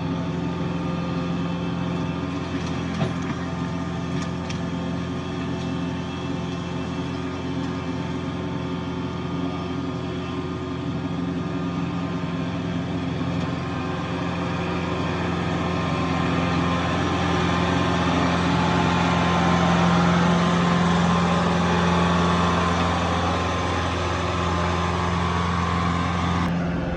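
Heavy equipment engine running steadily, growing louder about two-thirds of the way through, with a single sharp knock a few seconds in.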